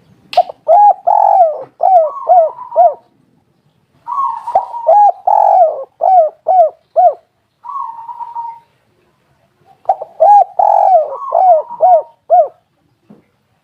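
Spotted dove (tekukur) cooing: three phrases of several quick, arched coos each, a few seconds apart.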